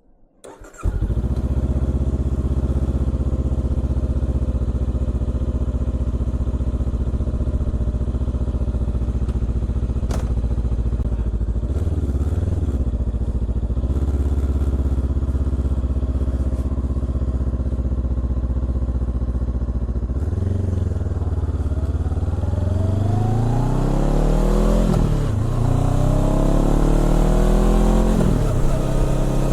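Honda CBR400R parallel-twin engine breathing through a Trick Star Ikazuchi aftermarket muffler, starting up about a second in and settling into a steady idle. It is blipped briefly a couple of times, then revved repeatedly near the end, the pitch rising and falling with each rev.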